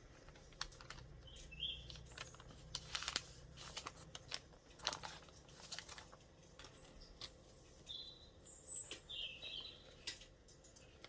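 Irregular light clicks and taps throughout, with short bird chirps a couple of times about two seconds in and again a few times near the end.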